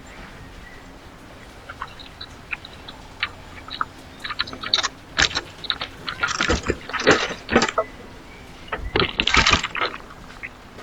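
Scattered clicks and taps that build into two bursts of rattling clatter, about four seconds in and again about nine seconds in, from animals working at a backyard bird feeder.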